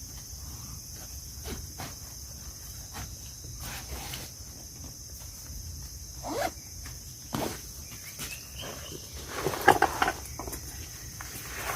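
Insects trilling steadily in a continuous high-pitched chorus, with scattered clicks and rustling handling noise close by, loudest about ten seconds in.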